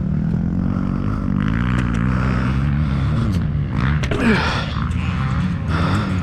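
Motocross bike engine running, its pitch wandering up and down, with a short rev that falls away about four seconds in.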